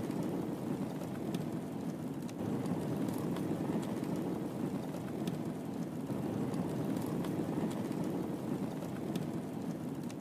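Wood fire crackling in a fireplace: a steady low rush of burning with scattered sharp pops and snaps of the wood.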